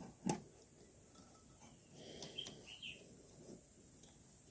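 Low-level quiet with a single sharp tap about a third of a second in, then a few faint, short bird chirps about two to three seconds in.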